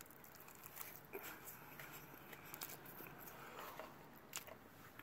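Faint chewing of a mouthful of chili cheese fries, with scattered soft mouth clicks.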